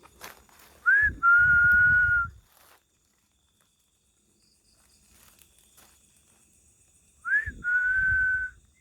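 A person whistling twice, each a quick upward flick followed by a long steady 'sweet' note. Between the two whistles a faint high chirp is heard, which is taken for a bird answering.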